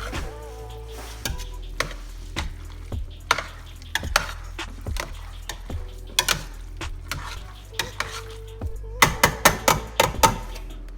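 A utensil stirring and tossing pasta with Alfredo sauce in a pan, scraping and knocking against the pan. Near the end comes a quick run of about six knocks.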